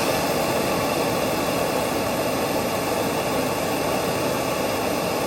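Chrysler 300C's 5.7L HEMI V8 running with the coolant tank cap off while the cooling system is bled of air, heard as a loud, steady rushing noise. The noise starts and stops abruptly.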